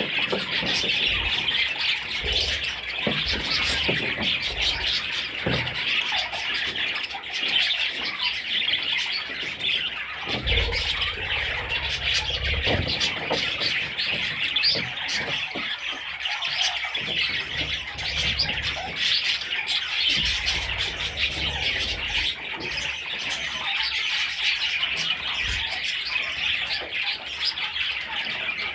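A flock of budgerigars chattering and chirping without a break, many birds at once.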